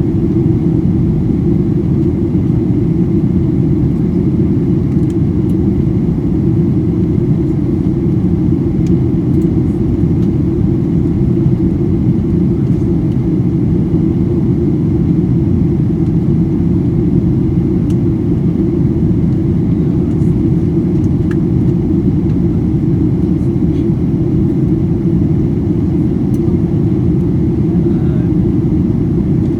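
Steady, even cabin rumble of a Boeing 737-800 airliner in flight: engine and airflow noise heard inside the passenger cabin, deep and unchanging in level.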